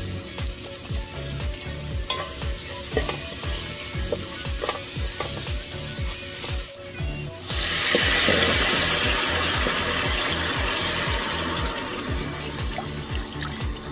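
Onion and garlic sizzling in oil, stirred with a plastic spatula with small clicks and scrapes. About seven and a half seconds in, a sudden loud hiss starts as beef broth is poured into the hot pot, then slowly eases. Background music with a steady beat.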